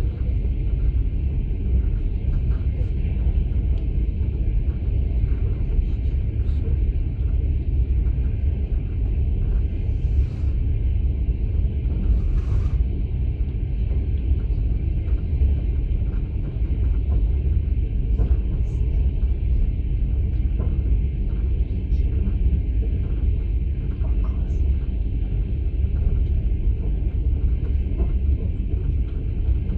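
Interior of a Russian platzkart sleeper carriage in motion: the train's steady running rumble with faint scattered clicks from the wheels and the car body, and two short hissing noises near the middle.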